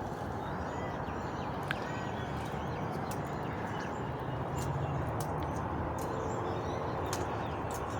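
Faint, short bird chirps and a few light clicks over a steady background noise.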